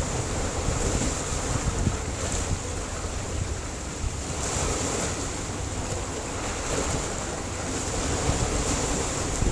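Sea surf washing against a rocky shore: a steady rush of waves that swells a little every few seconds, with low wind rumble on the microphone.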